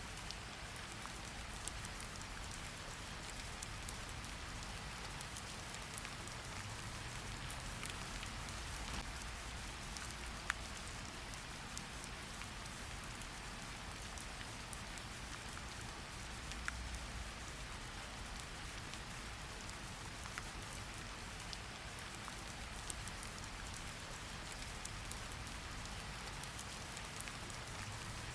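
Steady rain falling on hard surfaces: an even hiss with many small drop ticks and a few sharper, louder drips.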